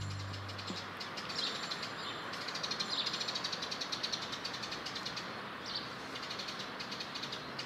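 Small birds chirping and twittering, a fast stream of high calls with a few louder chirps, over a steady background hiss.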